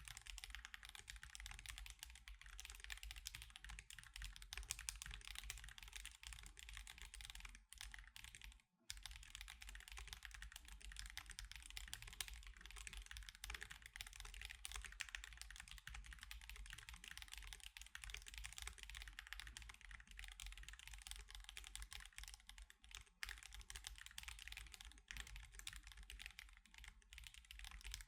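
Typing on an Akko Alice Pro mechanical keyboard fitted with Akko CS Crystal linear switches and osumekeys Sakura and Mochi keycaps: a dense, steady stream of key clacks, with a brief pause about nine seconds in.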